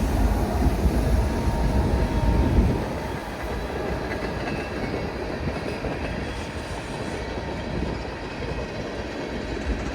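Freight train rolling past, the steady rumble and rattle of railcars on the track. The low rumble is heavier for the first couple of seconds, then eases to a steady, slightly quieter rolling noise.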